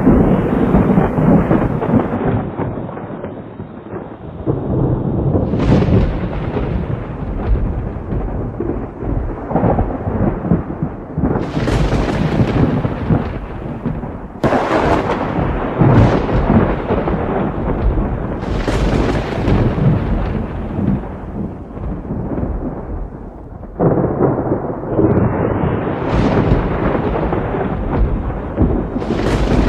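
Thunder rolling peal after peal over rain, with low rumbling throughout; several new peals begin with a sudden crack.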